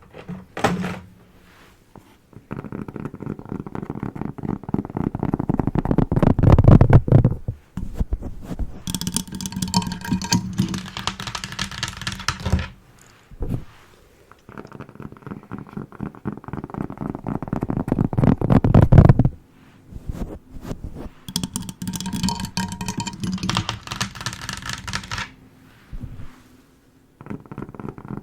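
A cork and a small glass bowl worked close to the microphone as an ASMR trigger: dense, rapid crackling and rattling in passes several seconds long, two of which swell louder toward their end.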